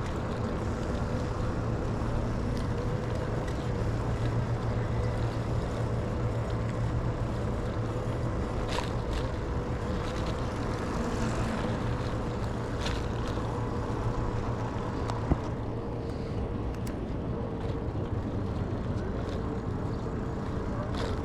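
Steady rolling noise from an e-bike ride, wind and tyre rumble with a steady hum, and a single sharp click about fifteen seconds in.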